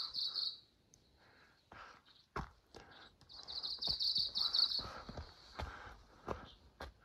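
A small bird singing a high, rapid trill in two bursts, briefly at the start and again for about a second and a half midway. Footsteps on a stony mountain trail land in between.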